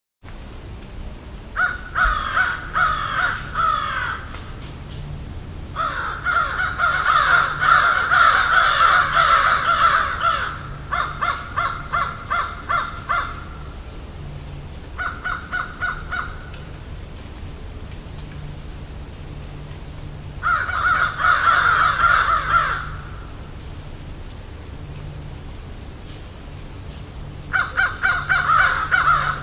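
Crows cawing in bouts of rapid, overlapping calls, several birds at once, with pauses of a few seconds between bouts, over a steady background hiss.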